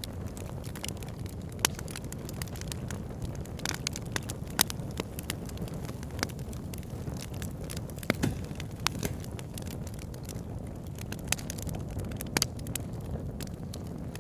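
Wood fire burning in a fireplace: a steady low rush of flames with dense, irregular crackling and a few sharper pops, the loudest about a second and a half, four and a half, and eight seconds in.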